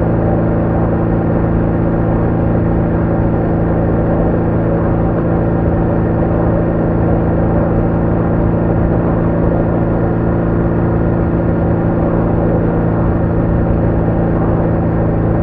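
BMW R1200R flat-twin engine running at a steady cruise, its pitch held constant, over a continuous rushing noise of the ride.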